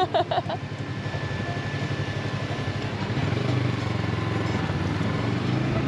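Motorcycle engine running while riding through city traffic; its pitch rises and it grows louder about three seconds in as the bike speeds up.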